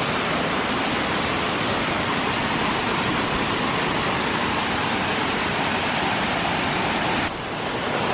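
Steady rush of flowing water, an even hiss with no pauses, dipping briefly near the end before coming back louder.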